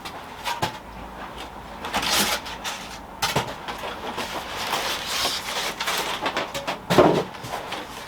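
Packaging being handled during an unboxing: polystyrene scraping and rubbing with a few knocks, the loudest bump about seven seconds in.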